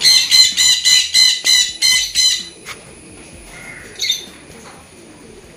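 A bird squawking in a rapid run of about ten harsh calls over two and a half seconds, then giving one more call about four seconds in.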